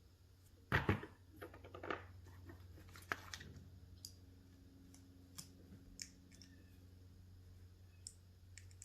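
Scattered clicks and knocks of small hydraulic-cylinder parts and seals being handled and fitted on a plywood work table, the loudest a short clatter about a second in. A steady low hum runs underneath.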